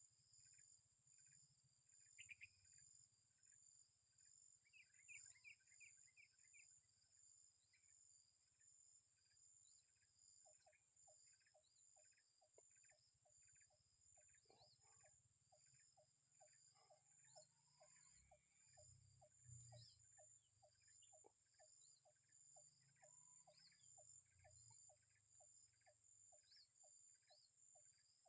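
Faint insect chorus, cricket-like: a steady high drone under short high chirps repeating about twice a second, joined about ten seconds in by a second, lower chirp repeating about three times a second.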